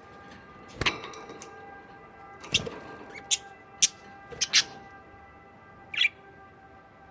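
Pet budgerigars chirping: about seven short, sharp chirps scattered over several seconds.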